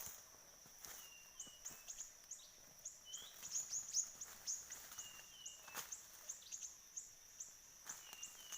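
Siri-siri bird calls: rapid short high chirps, several a second, over a steady high-pitched whine. A pair of short falling whistled notes comes three times, and a few faint clicks are heard.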